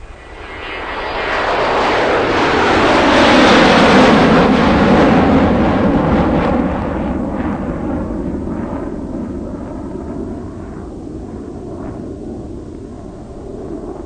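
Airplane flying past: a rushing engine noise that swells to its loudest about four seconds in, then falls in pitch and slowly fades away.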